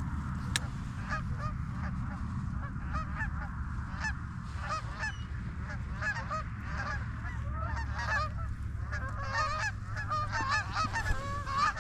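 A flock of geese honking, many short calls overlapping and growing busier toward the end, over a steady low rumble.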